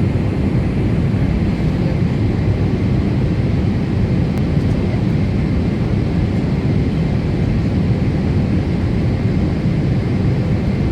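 Cabin noise inside a Boeing 747-8 airliner: the steady low rumble of its General Electric GEnx-2B engines and airflow, with a faint steady high whine above it.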